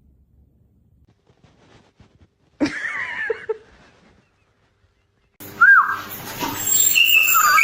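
Short animal cries: one brief pitched cry a little before the middle. From about two-thirds of the way through, a kitten's louder rising-and-falling cries over background noise.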